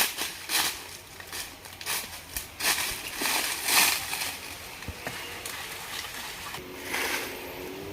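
Irregular crunching and rustling of dry vegetation in bursts of differing length, thinning out near the end.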